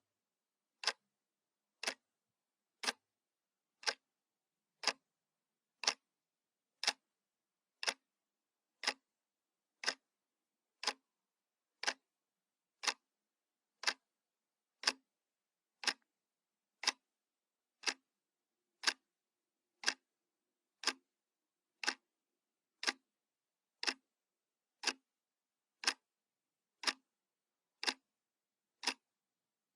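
Analog clock ticking steadily, one sharp tick each second, with dead silence between ticks.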